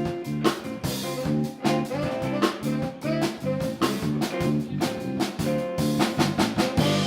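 A live band playing with drum kit and electric guitar: a steady beat of drum hits under held guitar notes.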